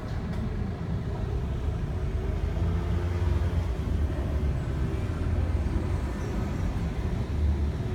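Model trains running on a layout: a steady low rumble.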